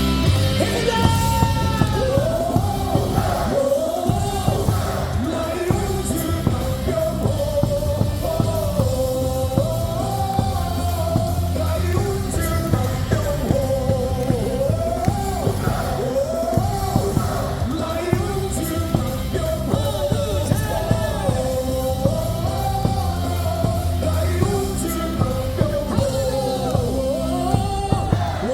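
Stadium loudspeaker music with a steady beat, and the baseball crowd singing a cheer song along with it in unison.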